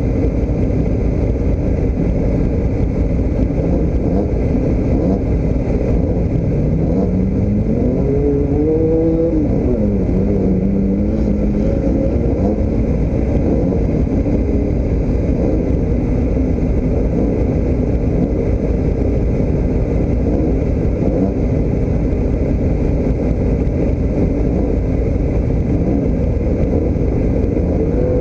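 Car engine running with a constant low rumble. About six seconds in, the revs climb for a few seconds, then drop and settle back to a steady pitch, and they start climbing again near the end.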